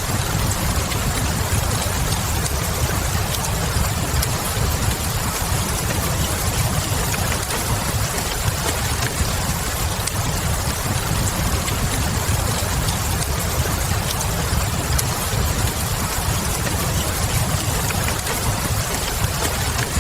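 Steady rain with a low rumble underneath, mixed with a wood fire crackling in small scattered pops.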